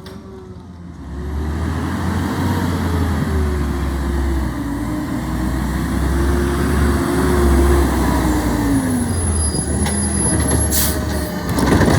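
Garbage truck's diesel engine running with a heavy low rumble under a whining tone that rises and falls. A short sharp air hiss comes near the end.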